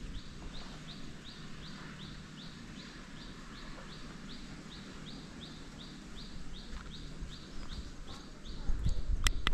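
A bird calling a long, even series of short, high, slightly falling notes, about three a second, over quiet outdoor background. Shortly before the end there is rustling and one sharp click.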